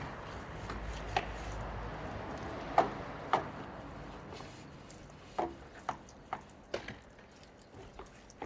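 A faint steady hiss at first, then a string of short, sharp knocks at irregular intervals, the loudest around the third second.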